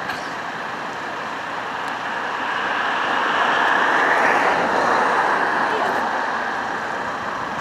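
Eurofighter Typhoon jet engine noise, a loud rush that swells to a peak about four seconds in and then eases off.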